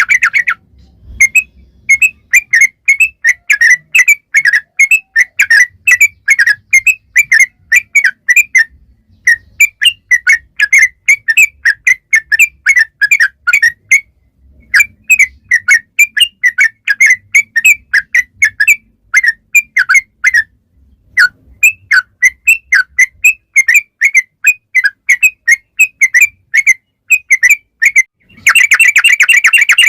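Yellow-vented bulbul (trucukan) singing a long, rapid run of short, sharp whistled notes, about five a second. The runs come in several phrases with brief pauses and close in a dense, unbroken trill.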